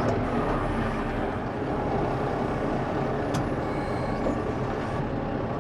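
Tractor engine running steadily while moving hay bales, with a constant drone and no change in pitch.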